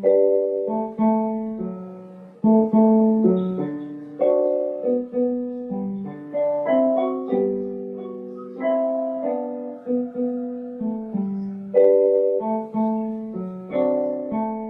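Solo piano playing a piece in chords and melody notes, each struck and left to fade.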